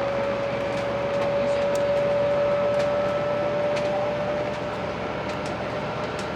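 Cabin noise inside a 500 series Shinkansen car running at speed: a steady rumble and hiss with a steady whine, which fades a little about four and a half seconds in, and a few faint ticks.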